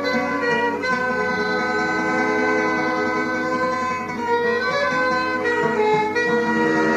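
Instrumental music: strings and woodwinds playing a melody in held notes.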